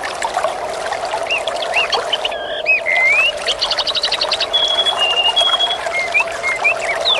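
Water trickling and burbling steadily, with small birds chirping over it in short rising and falling calls. About three and a half seconds in comes a quick run of rapid notes, followed by a few short, level whistled tones.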